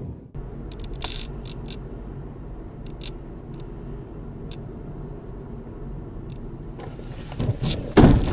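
Steady low rumble of a car driving, with a few faint short clicks. Near the end the sound grows busier and a loud sudden burst hits about eight seconds in.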